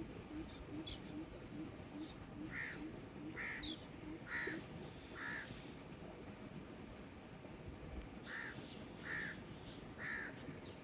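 A bird calling in two runs of short, repeated calls, four and then three, a little under a second apart. A faint, fast, low ticking runs under the first half.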